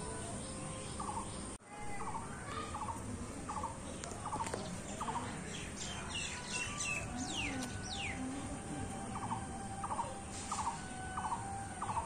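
Birds calling: one bird repeats a short note about twice a second, and another gives a few high falling whistles midway.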